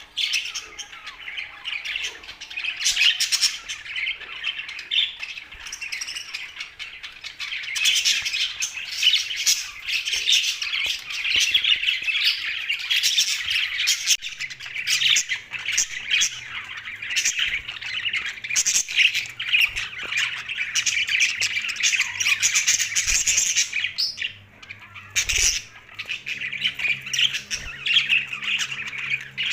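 A group of budgerigars chattering and squawking continuously, with a brief lull near the end.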